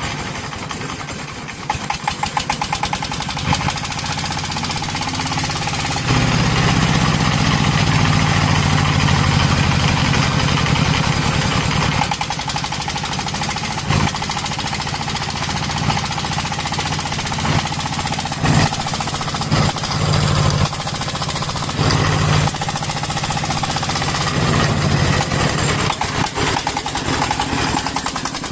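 Single-cylinder diesel engine of a Vietnamese công nông tractor running with a rapid, steady chugging, getting louder about six seconds in and rising and falling after.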